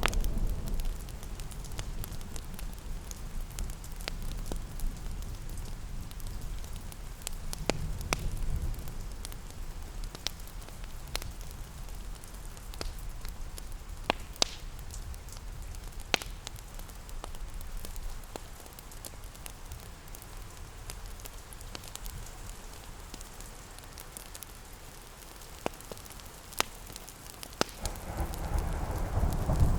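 Steady rain pattering, with a crackling wood fire giving scattered sharp pops every second or few. A low rumble swells near the end.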